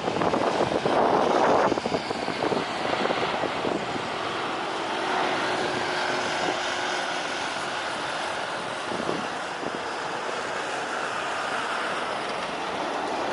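Jet airliner's engines running with a steady rushing noise and a faint whine. Wind buffets the microphone for the first two seconds or so.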